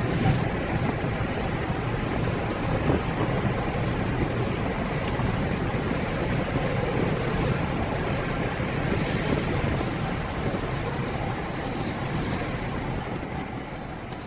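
Steady vehicle and road noise, a low rumble with no clear engine tone, easing off near the end.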